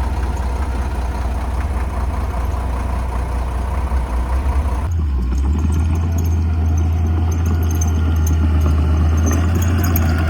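Heavy diesel earthmoving machinery running: a bulldozer or dump truck engine with a steady low hum. About halfway through, the sound changes abruptly to a louder, deeper engine note.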